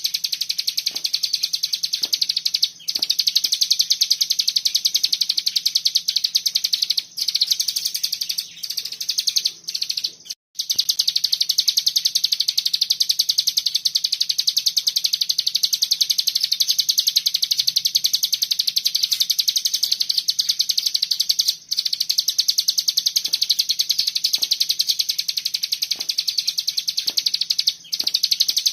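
Ciblek gunung (hill prinia) singing a fast, unbroken rattling 'ngebren' song of high chirps, paused only by a few short breaks.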